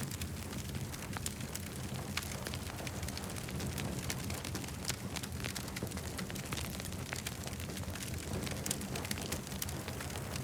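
Campfire crackling: dense, irregular pops and snaps from the burning wood over a steady low rumble of the fire.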